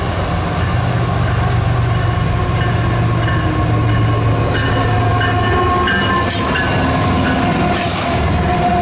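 CSX diesel-electric freight locomotive running under load as it approaches and passes close by, its engine rumbling with steady whining tones that drop slightly in pitch as it goes by. From about six seconds in, the rush of wheels on rail grows louder as the locomotive's trucks and the first cars roll past.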